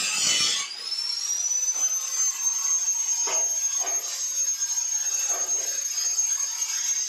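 Electric power tool motor spinning up and then running free with a steady high whine.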